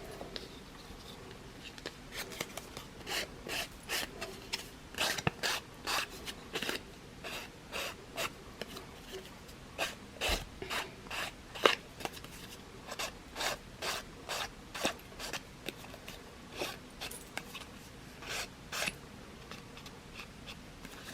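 Ink applicator rubbed over a piece of cardstock in repeated short swipes, about two a second, starting about two seconds in.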